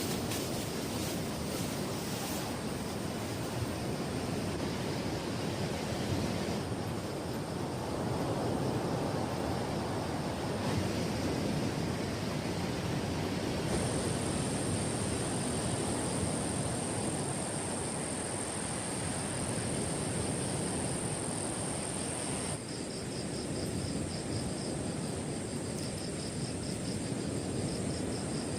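Steady rushing of surf and wind at a beach at night. About halfway through, a thin high trill of night insects joins in, and a fast pulsing chirp is added near the end.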